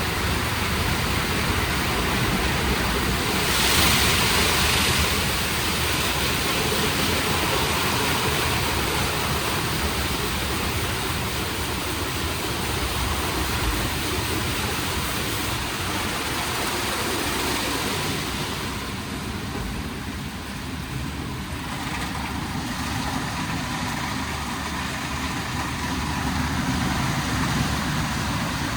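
WashTec SoftCare² rollover car wash portal at work: a steady wash of spraying water and machine noise, with a louder hiss for a second or two about four seconds in.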